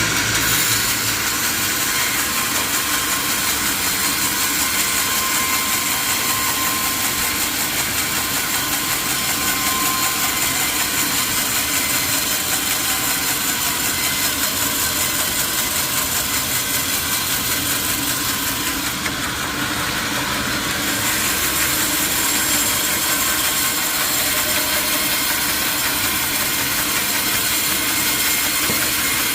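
Sawmill saw running steadily, cutting through a log of johar wood, with an engine running under it.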